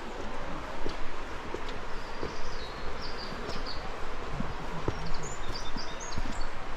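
Small birds chirping in short high bursts over a steady outdoor hiss, with irregular footsteps on stone steps.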